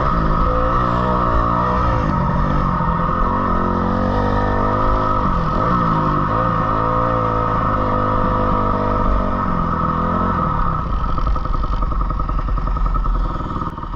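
Dirt bike engine revving up and falling back again and again as it is ridden around a motocross track, then settling into a steadier, rougher running about ten seconds in.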